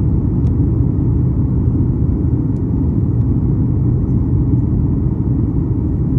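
Airliner cabin noise: the steady low rumble of the jet's engines and airflow heard from a passenger seat.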